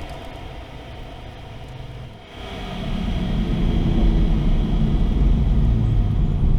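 Modified Toyota A90 Supra's engine and drivetrain heard from inside the cabin on track. The car is quieter off the throttle for the first two seconds, then back on the throttle about two and a half seconds in, and runs loud and steady after that.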